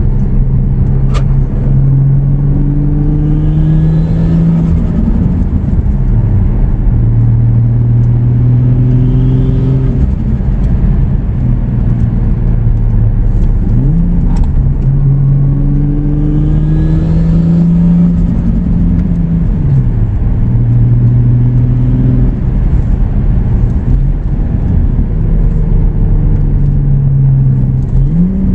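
Turbocharged Toyota 2JZ straight-six in a Lexus IS300 accelerating hard through the gears: the engine note climbs, drops at each shift and climbs again several times. A faint rising whistle from the turbo spooling sits over the engine during the pulls.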